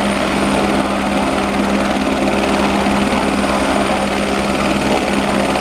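Helicopter running steadily on the ground after engine start, its turbine and turning rotor making a constant loud drone with a steady hum and a fast even pulse.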